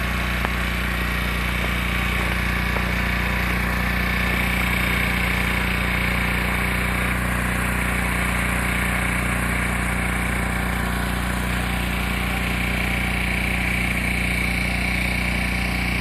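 Gasoline generator engine running steadily at constant speed, a loud even hum.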